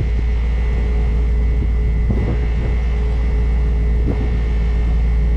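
Grain truck engine idling steadily on the scale, a constant low rumble with a steady hum over it.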